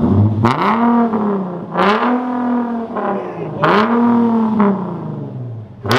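Infiniti G37 sedan's 3.7-litre V6, with a Motordyne Y-pipe and the mufflers removed, revved three times in quick succession, each rev climbing in pitch and falling back to idle. Loud.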